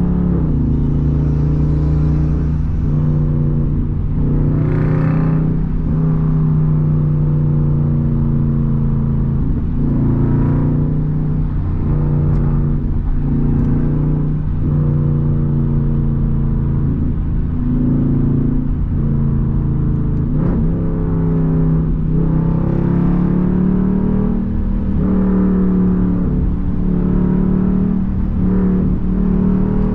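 Straight-piped Jeep Grand Cherokee SRT HEMI V8 exhaust droning loudly under acceleration, heard from the cabin with the rear windows open. The engine note climbs and then drops back about every two seconds as the paddle shifters take it up through the gears in sport mode.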